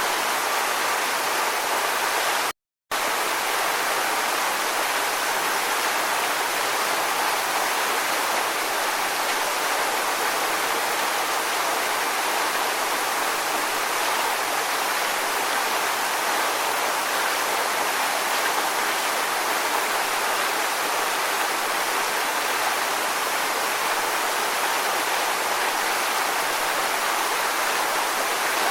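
Steady rushing water, an even hiss with no surges or rhythm. About two and a half seconds in, it drops out to dead silence for a fraction of a second, then resumes unchanged.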